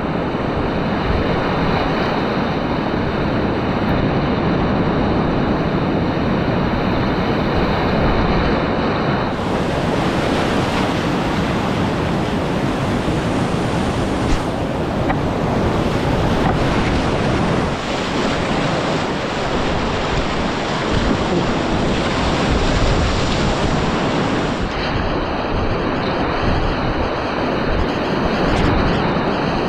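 Whitewater rapids rushing loudly and steadily, a continuous roar of churning river water.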